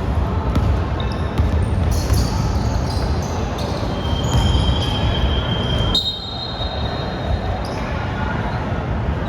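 Basketball game sounds in a gym: a ball bouncing on the hardwood amid steady crowd and court noise, with short clicks and knocks and a high tone held for about two seconds midway.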